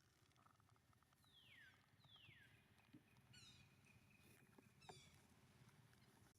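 Faint calls of a baby monkey: two falling cries about a second apart, then a few short high chirps.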